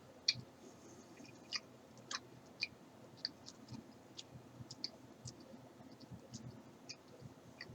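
Close-up mouth sounds of someone chewing a gummy vitamin: irregular wet clicks and smacks, a few a second.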